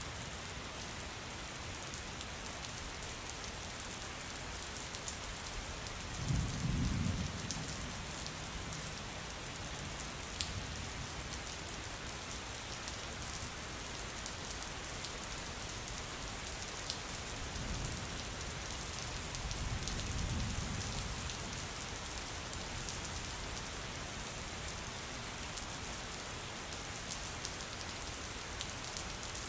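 Steady rain falling, with two low rumbles of thunder, one about six seconds in and another about twenty seconds in.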